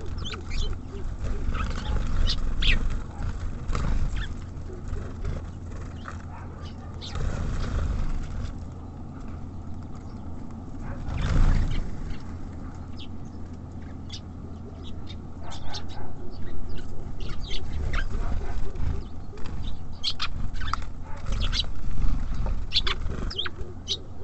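Small birds at a feeder chirping in short, scattered calls, busiest near the start and in the second half, over a steady low rumble, with one louder rush about halfway through.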